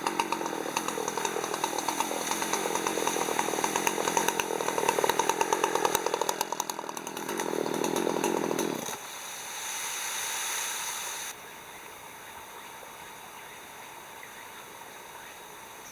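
Chainsaw running as it cuts wood, its pitch rising shortly before it cuts off about nine seconds in; a quieter sound follows for about two seconds, then only a low hiss remains.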